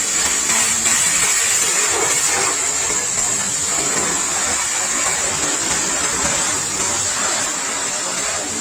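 Pressure washer running with a steady, loud hiss of spray.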